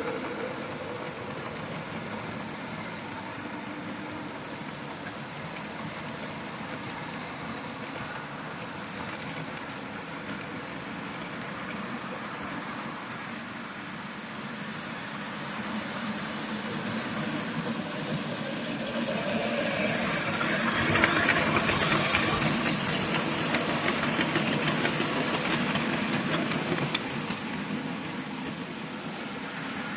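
OO gauge model train, a Class 25 diesel locomotive hauling open wagons, running along the layout. Its steady running noise grows louder from about 16 s in, is loudest around 21 to 26 s as it passes close by, then fades.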